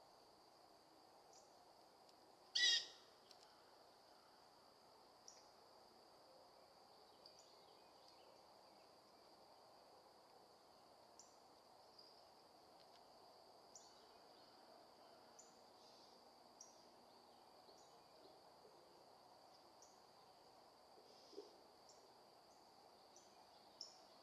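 Quiet outdoor birdsong: one short, loud bird call about three seconds in, then faint, scattered high chirps over a steady, high-pitched drone.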